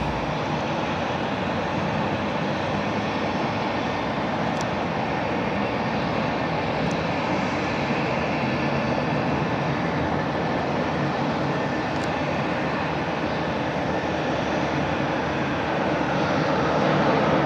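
Jet noise from the four CFM56 turbofans of a Lufthansa Airbus A340-300 on approach to land: a steady rushing drone that grows louder near the end as the aircraft comes closer.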